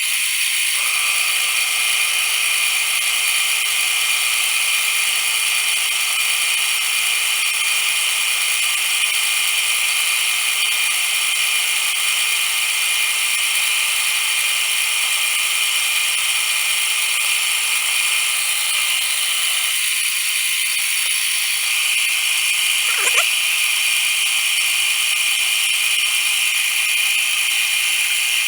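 Metal lathe running under cut, its tool turning a hex bar down to round. A steady machine noise with some of its tones dropping out about two-thirds of the way through, and a brief sliding sound shortly after.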